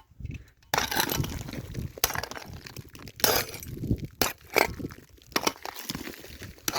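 Scrap iron and loose debris being picked through and handled: a busy run of sharp clinks, clanks and scrapes, with a stretch of crunching starting under a second in.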